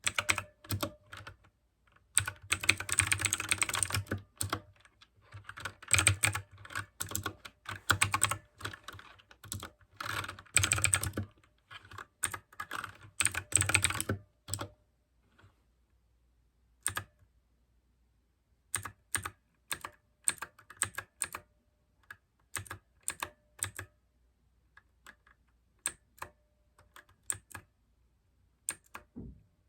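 Typing on a mechanical keyboard with clicky blue switches: fast, dense runs of keystrokes for about the first half, then slower, scattered keystrokes with short pauses.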